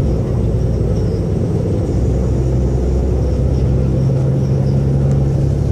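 Ottawa O-Train diesel railcar running, heard from inside the car as a loud, steady low rumble. About three and a half seconds in, a new steady engine note comes in, slightly higher than the drone before it.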